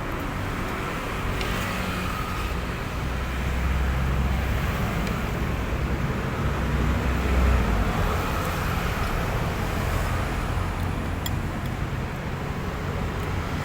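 Road traffic: a steady engine and tyre rumble from passing vehicles, swelling about four to eight seconds in as one goes by.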